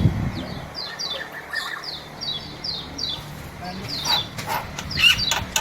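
A small bird chirping: a quick series of short, falling chirps, several a second, then a run of sharper, louder notes from about four seconds in.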